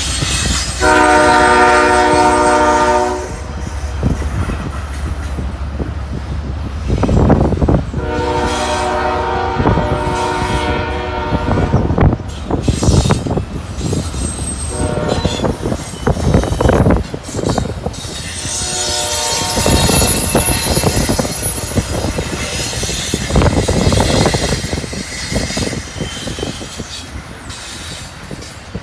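Double-stack intermodal freight train rolling past, its wheels rumbling and knocking over the rails. A diesel locomotive horn gives three long blasts, the third fainter, and a thin wheel squeal rises about two-thirds of the way through.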